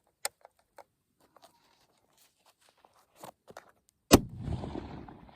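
A few faint scattered clicks, then a sharp knock about four seconds in, followed by strong wind buffeting the microphone.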